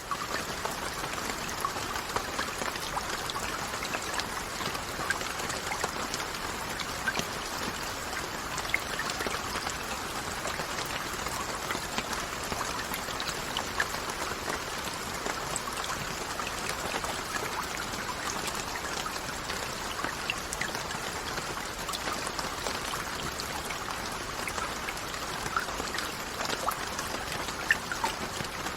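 Steady rain falling, an even hiss scattered with many small, distinct drop ticks.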